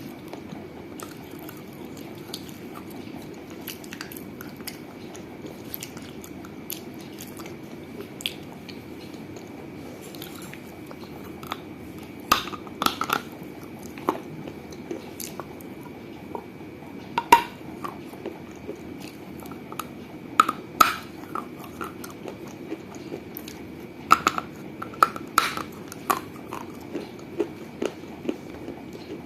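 Pieces of a small baked-clay piggy bank being bitten and crunched between the teeth, close to the microphone. Small scattered crackles come first, then louder sharp cracks in clusters from about twelve seconds in. Underneath is a steady hiss with a faint high tone.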